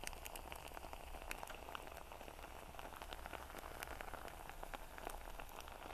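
Long-grain white rice in an uncovered pot giving off a faint sizzle of many tiny crackles as the last of the cooking water evaporates and the bottom begins to fry in the oil. The sound is the cue that the rice is ready to come off the heat and be covered to finish in its own steam.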